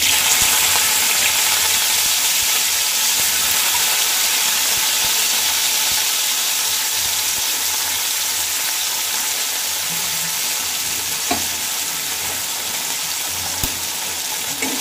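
Fresh Malabar spinach (pui saag) seeds sizzling in hot refined oil in a kadai. The sizzle starts suddenly as they drop in, then keeps up a steady hiss that slowly eases as the water in the seeds fries off.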